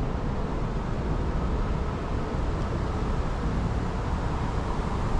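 Wind buffeting the microphone: a steady, low rushing noise with no pauses.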